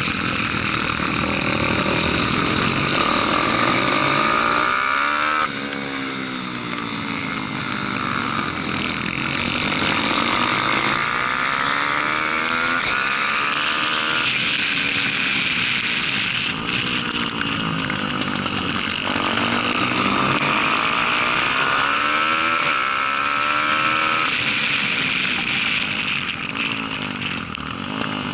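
Pit bike's Daytona 190 four-stroke engine racing hard, its pitch climbing under acceleration and falling as it backs off for corners, again and again. The engine note drops sharply about five and a half seconds in.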